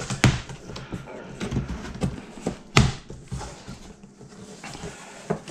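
Handling noises: a series of knocks and taps, the two loudest and sharpest shortly after the start and near the three-second mark.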